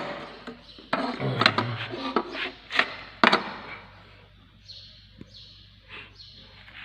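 Sharp knocks and clinks of drum brake parts being handled as the brake shoes and their return springs are taken off, about five strikes in the first half, then quieter handling.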